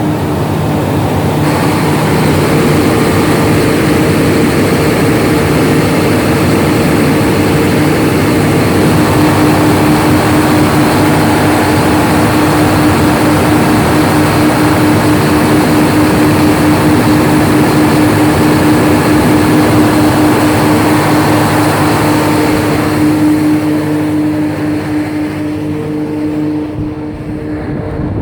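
Large diesel engine of a 1250 kVA Gesan generator set running steadily at speed, with a steady whine over the engine's drone. The sound grows brighter about a second and a half in and eases slightly near the end.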